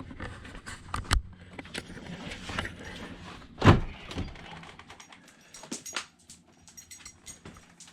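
Scattered knocks and thumps of moving about on a boat, going inside through a door, with one loud thump about halfway through and lighter clicks around it.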